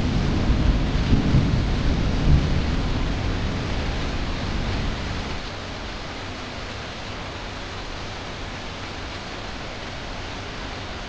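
Steady monsoon rain falling, with a low rumble of thunder that fades out about halfway through, leaving only the even hiss of the rain.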